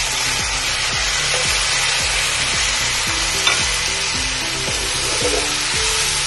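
Vermicelli frying in hot ghee sizzles steadily as coloured water is poured into the pan. A metal spoon stirs through it, with a few light clicks against the pan.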